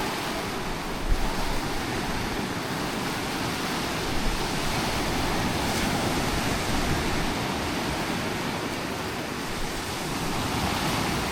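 Sea waves breaking and washing on the shore in a steady, continuous rush.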